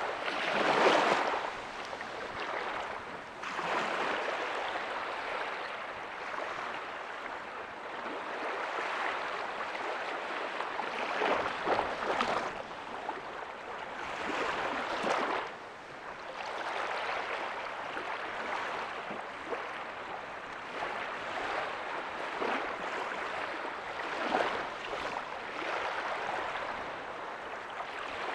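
Ocean surf breaking on a beach: a steady wash of water with a swell every several seconds as each wave breaks, the loudest about a second in.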